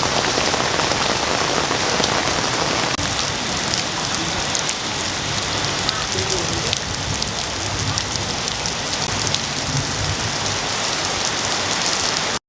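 Water from a small water fountain falling and splashing, a steady, even rush that cuts off abruptly near the end.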